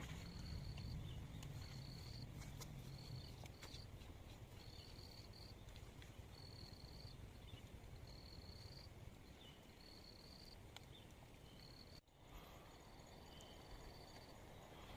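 Faint cricket chirping: a short, high trill on one pitch, repeated about once a second over a low rumble. The sound cuts out briefly about twelve seconds in, then resumes.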